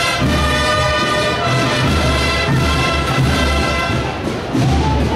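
Procession band playing a processional march: held brass chords over a steady bass drum beat.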